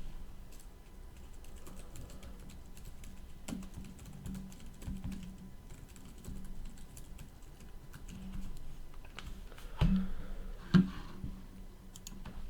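Typing on a computer keyboard: a run of quick key clicks, with two louder knocks a second apart near the end.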